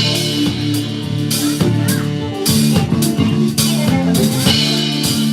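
Live band playing: a drum kit with cymbal crashes and drum hits over guitar holding sustained notes.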